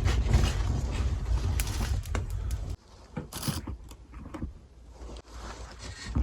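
Bonfire crackling under a heavy rumble of wind on the microphone; the rumble cuts off abruptly a little under three seconds in, leaving quieter scattered crackles and knocks.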